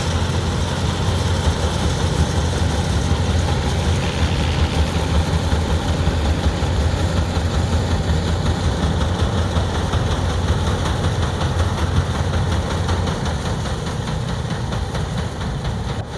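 Vintage tractor engine running steadily with a heavy, low rumble, easing off slightly near the end.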